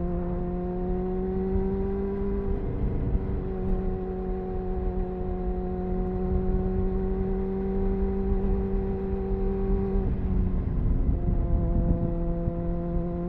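Triumph Speed Four's 600cc inline-four engine pulling steadily under way through its stock exhaust, with wind rush underneath. The engine note dips briefly about two and a half seconds in and again near the end, settling slightly lower the second time.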